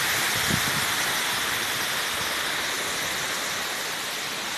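Steady rush of water pouring over a small check dam, slowly getting quieter, with a faint knock about half a second in.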